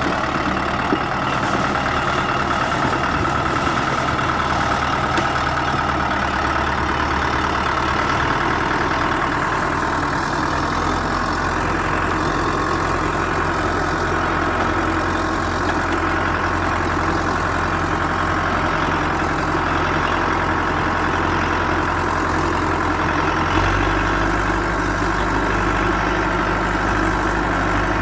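Bulldozer's diesel engine running steadily, its low hum shifting pitch a few times, about a third of the way in and again near the end.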